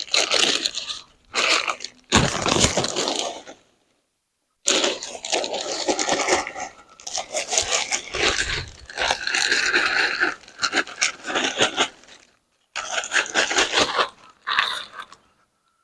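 Black topsoil being worked into the planting hole around a tree: repeated bursts of gritty scraping and crunching of soil, cut off to silence twice.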